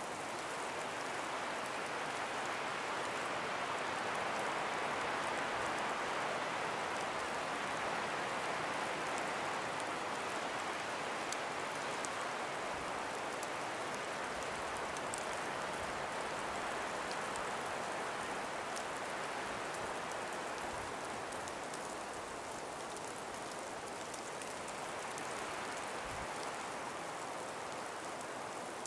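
Calm breeze through a forest of ice- and snow-covered trees: a steady, even hiss that swells slightly and eases again, with faint scattered ticks.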